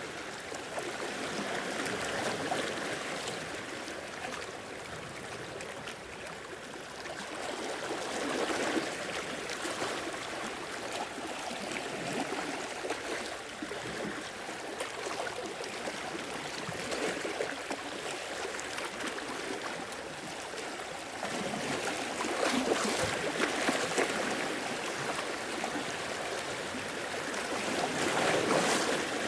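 Sea waves washing in over the shore, a continuous rush and trickle of water that swells every several seconds, strongest about three-quarters of the way through and near the end.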